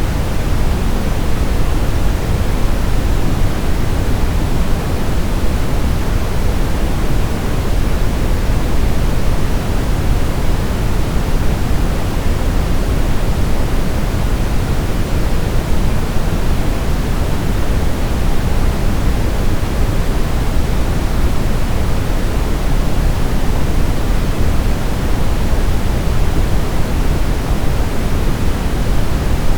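Steady brown noise: an even, unchanging hiss weighted toward the low end, deep and rumbling with little treble.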